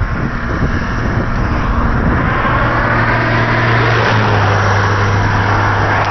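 Car driving at speed, heard from inside the cabin: a steady hiss of tyre and road noise over a low engine hum, which shifts slightly in pitch about four seconds in.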